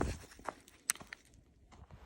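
A hiker's footsteps on a trail: a handful of irregular steps in the first second or so, then quieter.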